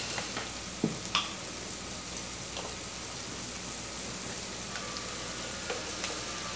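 Potato, prawn and onion filling sizzling in oil in a steel wok, a steady frying hiss, with a couple of light clicks about a second in.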